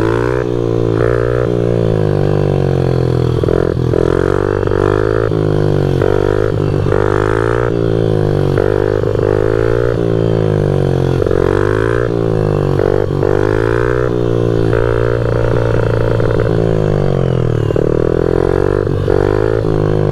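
Honda CRF50 pit bike's small single-cylinder four-stroke engine running under load, its pitch rising and falling every second or so as the throttle is worked.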